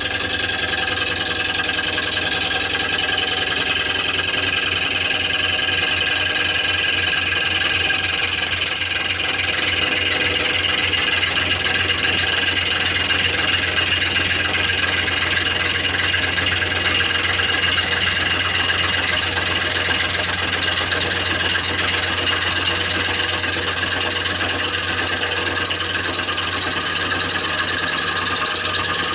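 Wood lathe turning a rowan bowl blank while a gouge cuts it: a steady motor hum under a continuous hiss of cutting.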